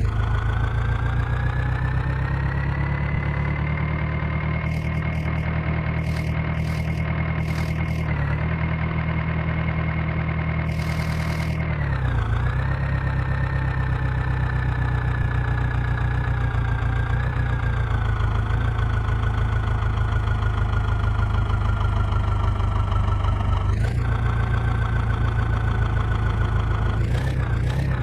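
Heavy diesel engine running. Its pitch climbs over the first few seconds and holds, dips briefly twice, then slowly sags, with a short sharp drop and some wavering near the end.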